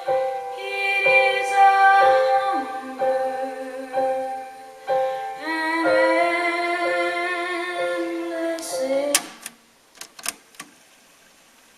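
Cassette deck playback of a woman singing with piano, held sustained notes, that ends about nine seconds in. A few sharp clicks follow, then faint tape hiss.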